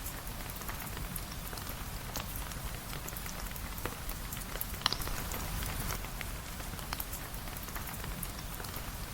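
Steady rain falling, with scattered small sharp clicks. One louder, sharper pop comes a little before halfway through.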